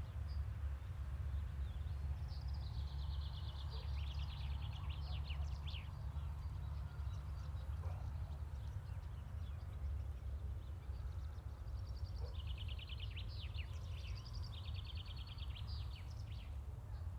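A small bird singing rapid, high trilled phrases in two spells, over a steady low rumble of outdoor background noise.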